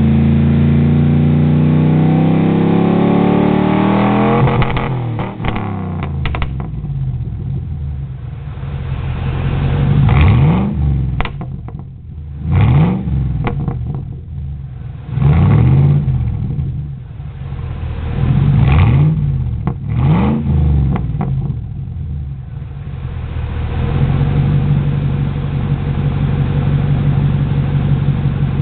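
Exhaust of a 1999 Ford Expedition's 5.4-litre V8, running with the muffler deleted. It revs up over about four seconds and drops back, then gives about five quick throttle blips, and settles to a steady run near the end.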